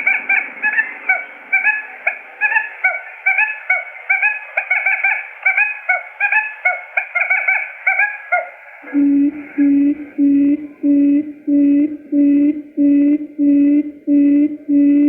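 Quail decoy calls, used as a trapping lure. For about nine seconds there is a rapid series of short chirping calls, several a second. It then switches abruptly to a steady run of low hoots, about two a second.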